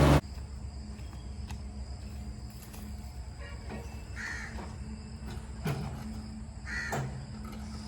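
A loud tractor engine sound cuts off abruptly at the very start, leaving a low steady hum. Over the hum, crows caw three times.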